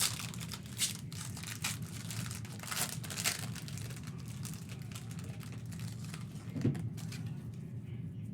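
Crinkling of trading-card packaging as a box of football cards is handled, in scattered crackles that thin out toward the end.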